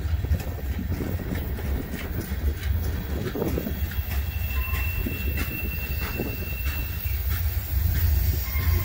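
Coal hopper cars of a freight train rolling past on curved track: a steady low rumble of steel wheels on rail with repeated clicks as the wheels cross rail joints. A thin, high wheel squeal rises out of it about halfway through and lasts a couple of seconds.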